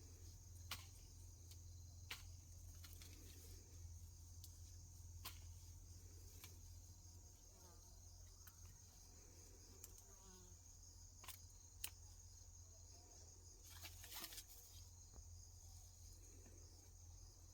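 Near silence with faint, steady insect chirring and a few scattered soft clicks.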